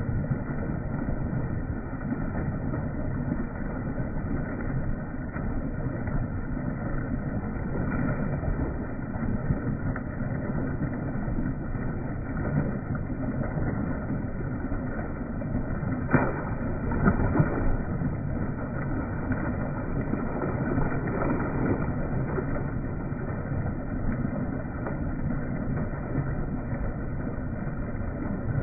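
Steady low rumbling noise of a boat's motor running, with a few louder knocks a little past halfway.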